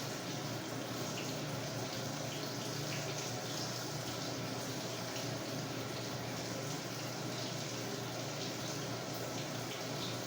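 Samsung WA45T3200AW top-load impeller washer early in a Quickwash cycle, with a steady rush of water in the tub.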